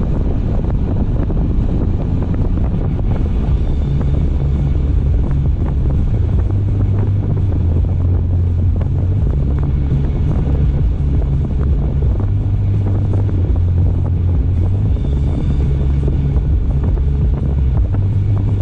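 Car driving at road speed: steady road and wind noise with a heavy low rumble.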